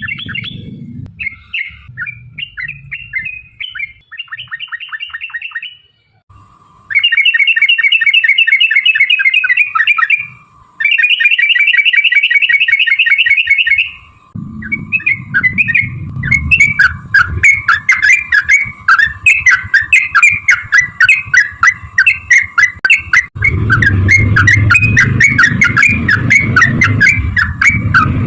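Yellow-vented bulbuls singing loud, bubbly chattering phrases. Two long, fast, even trills come about 7 and 11 seconds in, then steady chatter resumes over a low rumble.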